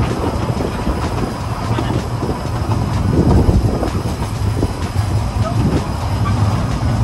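Kurobe Gorge Railway narrow-gauge trolley train running along the line, heard from on board an open carriage: a steady low rumble of wheels on rail with light clicks.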